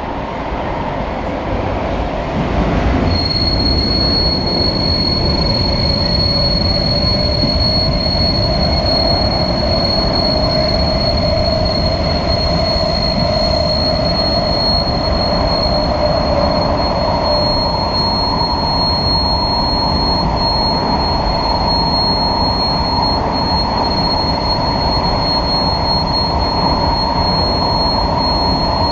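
SMRT C151A (KSF A) metro train running, with a loud, steady high-pitched screech that sets in about three seconds in and holds on over the running noise. This screech is a known issue on some KSF A trains when they run into a tunnel.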